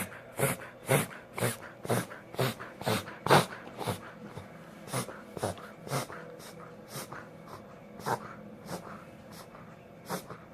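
A dog reverse sneezing: quick, forceful inhalations through the nose, repeated about two a second, loudest in the first four seconds, then weaker and further apart.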